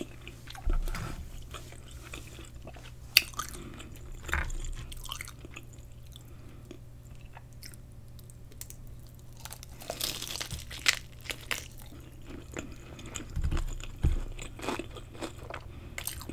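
Close-miked biting, crunching and chewing of a battered, deep-fried lobster tail dipped in alfredo sauce: irregular crisp crunches and mouth sounds, with a quieter lull in the middle and the busiest chewing about ten seconds in and again near the end.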